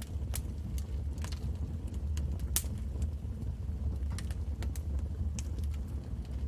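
Wood fire crackling: irregular sharp pops and snaps over a steady low rumble, the loudest pop about two and a half seconds in.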